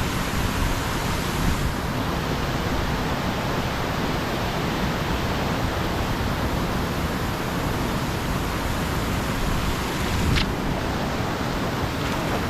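Steady rush of floodwater pouring through a spillway, with one short sharp sound about ten seconds in.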